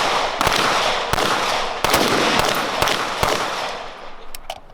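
Rifle shots in a steady string, about one every three-quarters of a second, each followed by a long echoing tail; the shots thin out and get quieter near the end.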